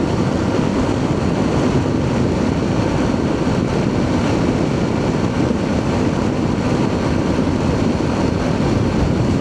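Steady rush of wind on the microphone over the engine and road noise of a Triumph Tiger 800's three-cylinder engine, the motorcycle cruising along the highway.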